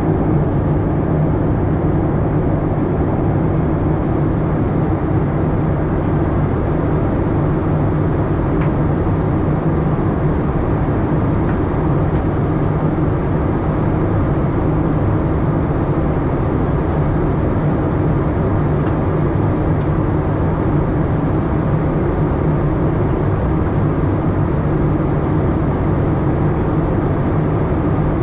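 Steady cabin drone inside a Boeing 787-8 airliner: engine and airflow noise held at an even level.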